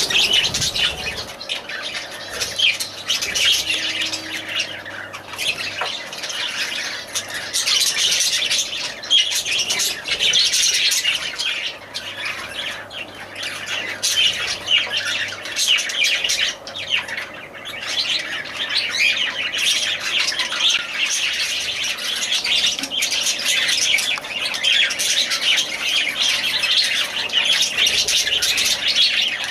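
Small pet parrots chirping and squawking continuously, a dense stream of short, high calls.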